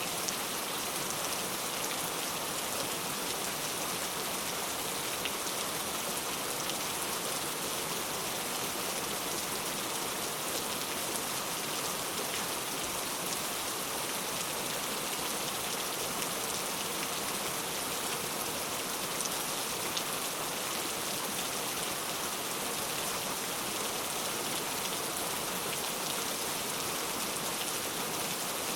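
Steady rain falling and pattering on surfaces, an even hiss of many small drops with no break or change.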